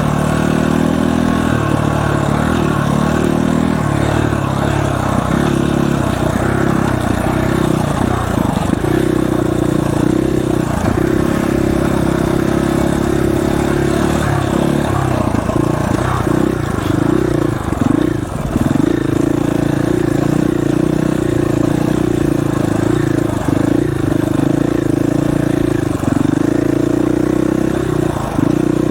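Dirt bike engine running on the move, its pitch rising and falling as the throttle is worked.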